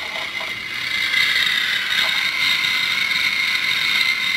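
Dickie Toys toy fire truck playing its electronic siren sound effect through its small built-in speaker: a steady high-pitched tone.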